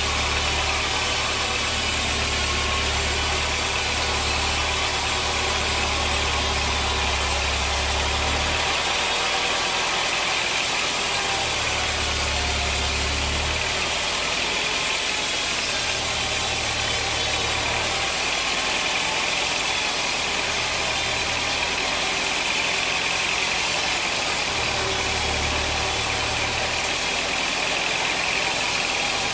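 Sawmill machinery running steadily, a loud, even mechanical noise with a low hum that drops out and returns several times.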